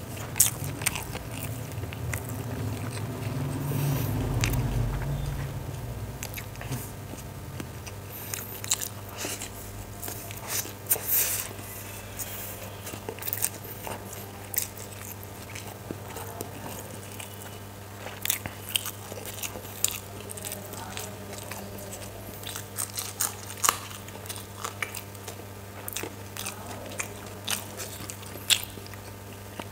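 A person chewing mouthfuls of spicy chicken chow mein noodles close to the microphone, with many wet mouth clicks and smacks. A steady low hum runs underneath.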